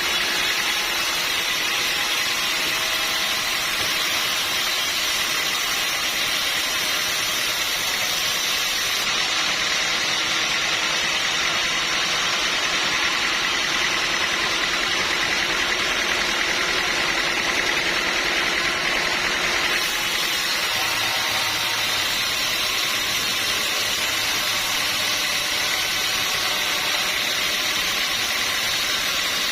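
Sawmill machinery running steadily: a continuous mechanical noise with a faint steady whine.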